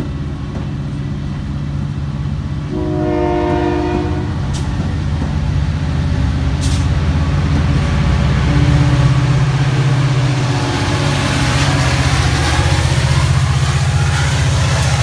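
Metra commuter train with a diesel locomotive: the engine drones steadily, a short horn blast sounds about three seconds in, and rushing rail and wheel noise builds through the second half as the train draws close and passes.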